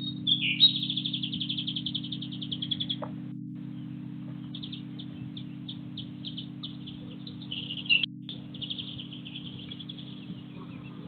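A small songbird singing: a fast trill of high notes lasting about three seconds, then after a short pause a longer run of quick notes and trills.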